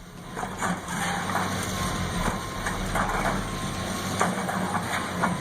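Heavy diesel engine running steadily, with scattered knocks and crunches over it.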